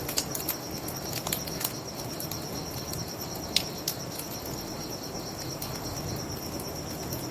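Bonfire crackling, with a few sharp pops, over the steady high chirping of crickets and a low rushing of river water.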